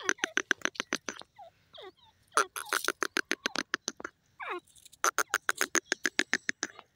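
Francolin (teetar) calling: three bouts of fast, sharp repeated notes, each a second or two long, with a few short falling whistles between the bouts.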